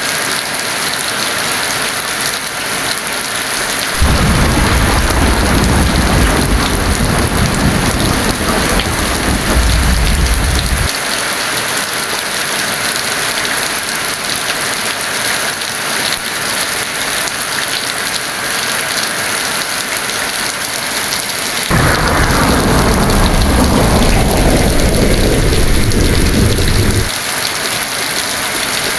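Heavy rain falling steadily, with two long rolls of thunder. The first comes about four seconds in and lasts around seven seconds. The second starts past the two-thirds mark and lasts about five seconds. Each ends abruptly.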